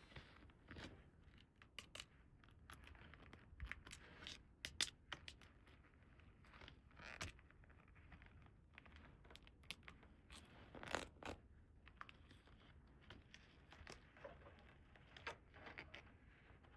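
Faint handling of a miniature plastic toy set and its packaging: irregular light clicks, scrapes and rustles, with a few louder clicks.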